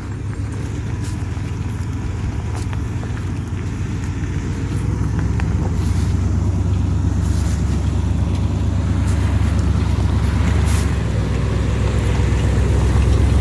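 A truck being driven: a steady low engine and road rumble that gets louder about five seconds in and again near the end, with scattered light knocks and rattles.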